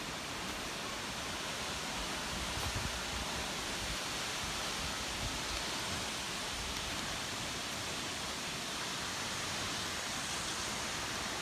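Falling water of Wli Waterfall, a steady, even rushing hiss.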